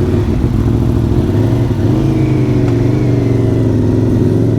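Aprilia Tuono V4 Factory's V4 engine running at a steady pitch with slight rises and falls.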